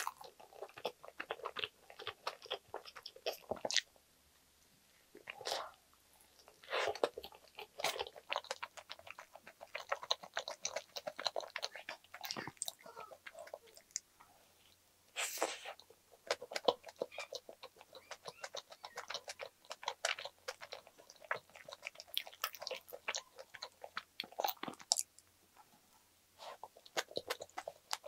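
Close-miked chewing and wet mouth sounds of a person eating a soft egg tuna mayo sandwich, with one clear bite about fifteen seconds in.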